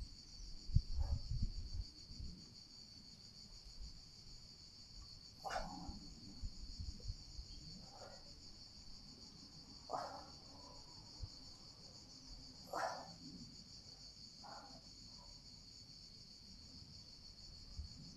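Steady, high-pitched insect chorus. A few low thumps come in the first two seconds, and short sounds recur every two to three seconds over it.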